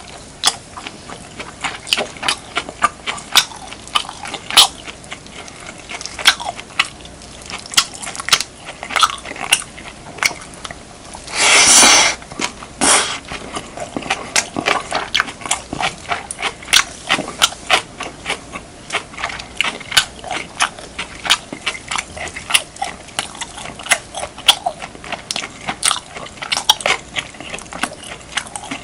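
Close-miked chewing of beef, kimchi and rice: a steady run of wet smacks and crisp crunches, with a louder rushing burst of about a second near the middle.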